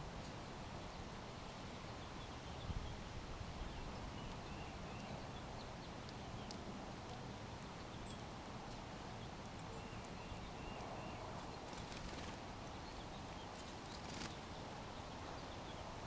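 Outdoor backyard ambience: a steady hiss with a few faint short bird chirps and scattered light clicks.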